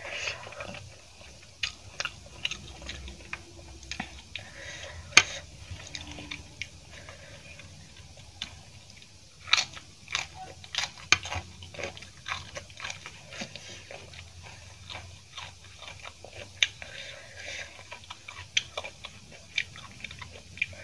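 Close-miked chewing of a mouthful of rice eaten by hand, with many short sharp clicks scattered through it. The loudest clicks come about five seconds in and again around ten and eleven seconds.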